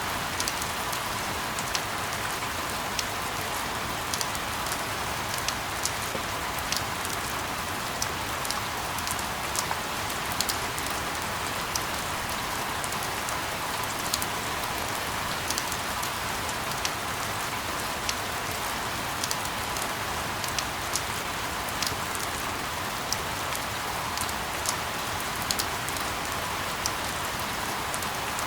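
Steady rain, used as a sleep sound: an even hiss with many separate drop ticks scattered irregularly through it.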